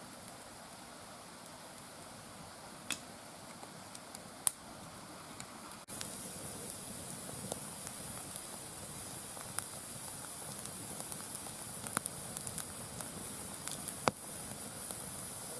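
Mixed firewood burning in a round fire stand: a steady hiss with sharp crackles and pops every second or two. The hiss gets louder about six seconds in.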